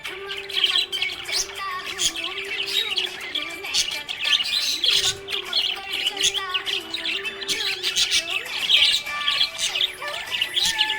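Budgies chirping in a steady stream of short, high calls, over a soft melody of background music.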